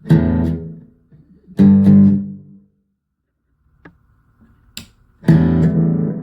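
Electric guitar played through a Donner Yellow Fall II delay and reverb pedal: three strummed chords, each left to ring and fade, with a silent pause and two short clicks between the second and third.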